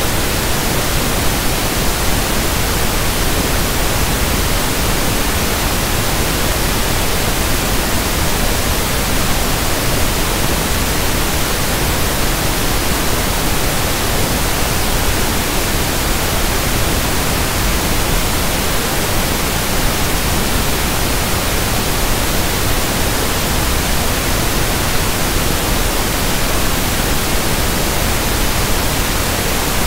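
Synthetic pink noise (1/f noise): a steady, even hiss with no change in level.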